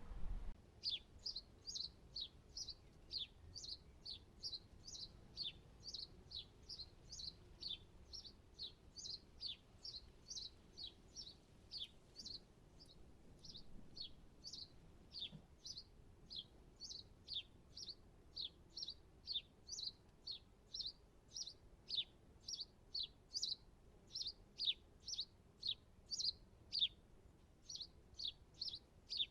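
A small songbird singing a long, even series of short, high notes, each sliding downward, about two a second.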